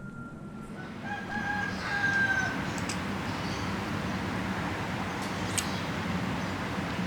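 A rooster crowing once, a drawn-out call of about a second and a half, over a steady rushing background noise.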